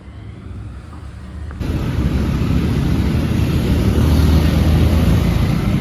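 A road vehicle on the move: a low engine and road rumble that swells suddenly about a second and a half in into a loud rush of travel and wind noise.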